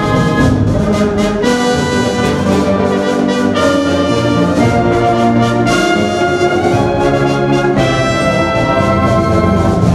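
Band music led by brass (trumpets and trombones), playing held chords that change every second or two.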